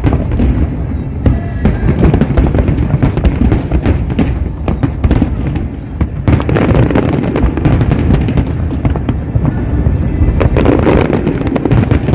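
Large fireworks display going off in a dense, unbroken barrage: rapid sharp cracks and pops over a continuous low booming rumble.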